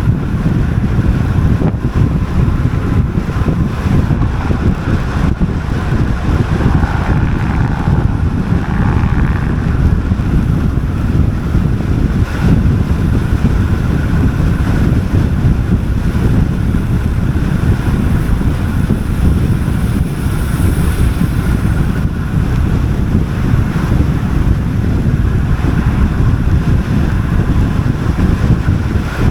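Heavy wind buffeting on the microphone from riding a road bike fast downhill, a steady low rumble.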